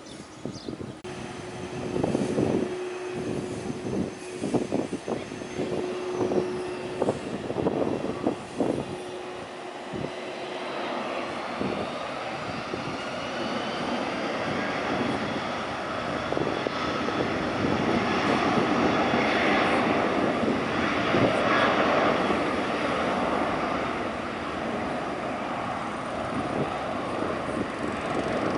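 Jet airliner passing close by. Its engine noise swells from about a third of the way in and peaks about two-thirds in, with a high whine over the rushing sound.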